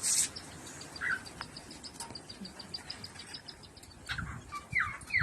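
Cockatiel chirping: a brief rustling burst at the start, a short chirp about a second in, a quick run of faint high ticks, then a few short falling chirps near the end.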